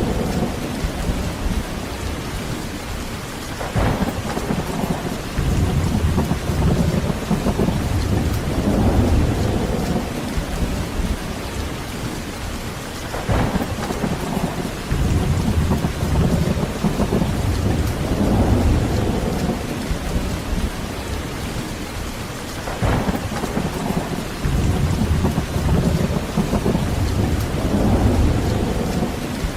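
Heavy rain falling steadily with thunder. Three sharp cracks come about nine to ten seconds apart, and each is followed by a long, low, rolling rumble that swells and fades.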